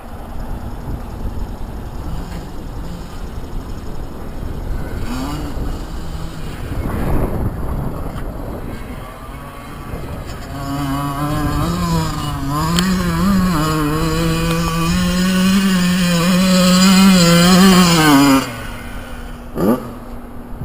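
Two-stroke Yamaha YZ85 motocross bike engines on the track: a low rumble at first, then a bike revs up and down through its gears about halfway in, getting louder, and cuts away sharply near the end. A brief rising rev follows.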